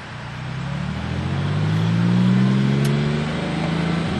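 Porsche 996 Carrera flat-six running through a Fabspeed Maxflo cat-back exhaust, accelerating. The note climbs steadily in pitch and loudness for about two seconds, then levels off and eases slightly lower near the end.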